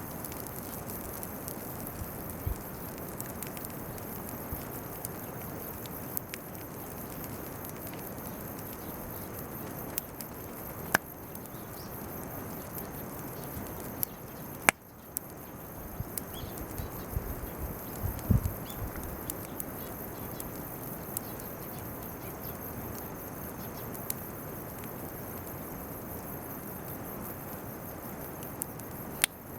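A bonfire of weeds and chestnut burs crackling, with scattered sharp pops, a few louder ones about halfway through. A steady high insect chirring runs under it.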